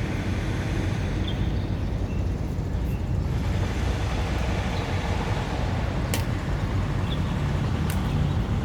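Strong wind buffeting the microphone: a steady low rumble, with two sharp clicks about six and eight seconds in.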